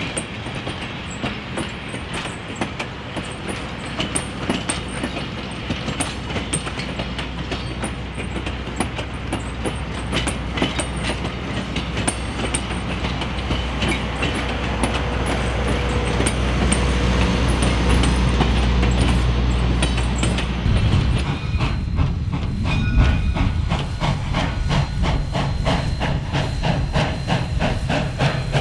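Passenger coaches and a caboose of a steam excursion train rolling past, wheels clicking over the rail joints over a low rumble that grows louder. About 21 s in the sound changes abruptly to a quick, even rhythmic beat.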